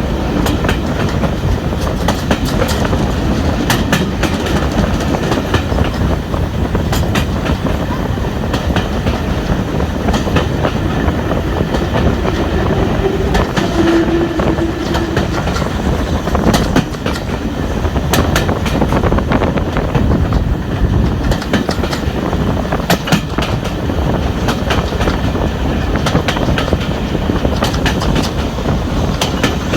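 Passenger train running along the line behind a steam locomotive: a steady rolling rumble with repeated clicks of wheels passing over rail joints. A short low tone sounds about halfway through.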